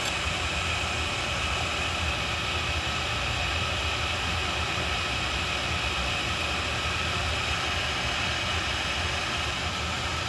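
Crown oil boiler's burner motor and blower running with a steady hum and hiss as the burner tries to light. It does not fire: there is air in the oil line.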